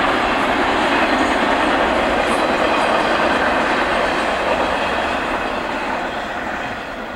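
Double-stack intermodal freight train's well cars rolling past, a steady noise of steel wheels running on the rails that fades over the last couple of seconds.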